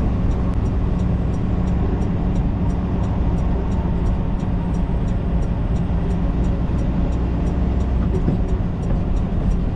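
Tractor-trailer's diesel engine and road noise droning steadily inside the cab, with the hazard flashers ticking faintly and evenly, about three clicks a second.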